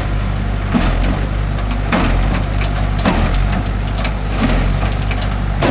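Heavy diesel engine running steadily at a low idle, with a faint knock about once a second.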